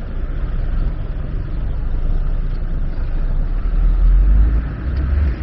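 Steady low rumble of outdoor city noise, swelling louder about four seconds in.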